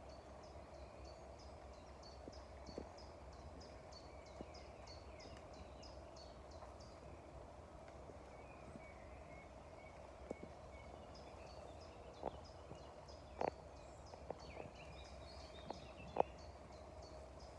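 A songbird singing long runs of quick, high repeated notes, with a few lower chirps between, over a faint steady hum. A few sharp knocks sound in the second half, the loudest near the end.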